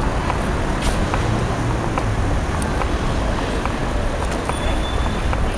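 Street traffic at a tram and bus stop: a steady rumble of vehicles with scattered small clicks, and a faint high squeal near the end.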